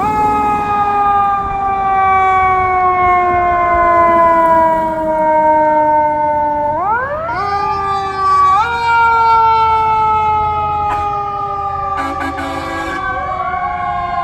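Fire engine's mechanical siren winding down slowly in pitch, then spun back up about seven seconds in, with another boost a second or so later and a further rise near the end.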